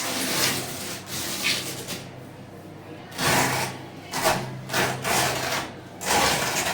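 Irregular rubbing or scraping strokes on a hard surface, about seven in a row, each lasting from a fraction of a second to about a second.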